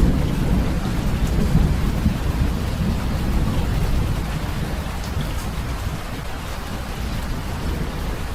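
Steady rain falling, with a low rumble of thunder that slowly dies away.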